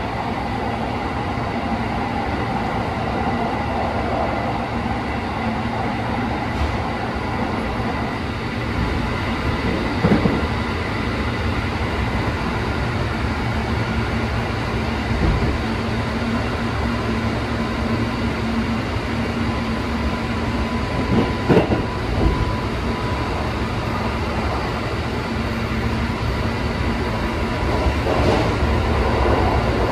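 Keikyu 1500 series field-chopper-controlled electric train heard from inside the passenger car while running: a steady rumble of wheels on rail with a faint steady whine. A few short knocks come through, once about ten seconds in and twice a little after twenty seconds, and the rumble grows slightly louder near the end.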